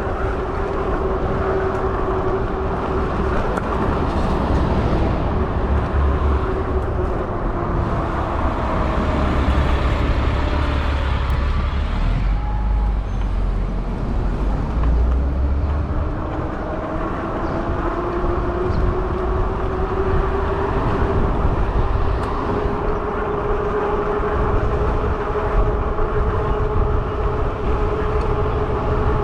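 Fat-tire e-bike under way: a steady whine that sinks and fades about halfway through as the bike slows, then climbs again as it picks up speed, over low rumble of wind and tyres.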